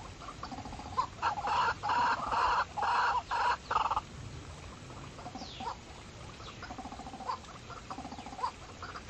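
A bird clucking: a run of about six loud calls between about one and four seconds in, over fainter short calls repeating about twice a second.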